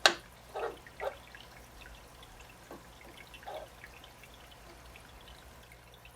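Water dripping and splashing in an aquarium tank, a sharp click right at the start and a few softer plops about half a second, a second and three and a half seconds in, over a faint steady low hum.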